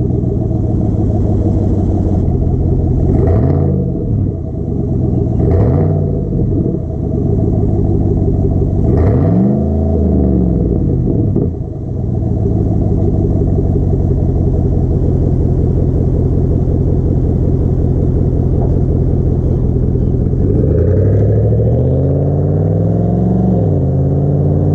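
2020 Chevy Silverado 1500's 5.3-litre V8 idling through a freshly fitted Borla aftermarket muffler and dual-tip exhaust. It is blipped three times in the first ten seconds, then revved up and held for a few seconds near the end.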